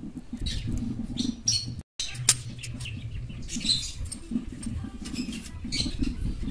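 Small birds chirping now and then over a low, steady background rumble. The sound cuts out completely for a moment just before two seconds in.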